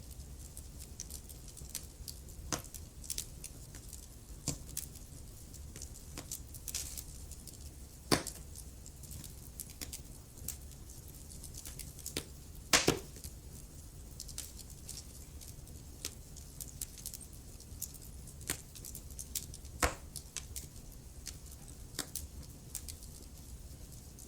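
Wood fire crackling in a fireplace: irregular sharp snaps and pops from the burning logs over a low steady rumble, with a few louder pops, the loudest about halfway through.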